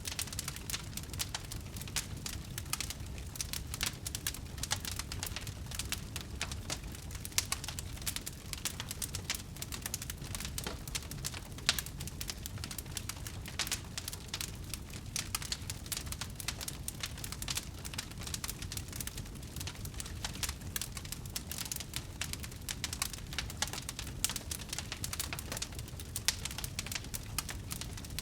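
Wood fire burning: dense, steady crackling of burning wood over a low rumble, with a few louder pops.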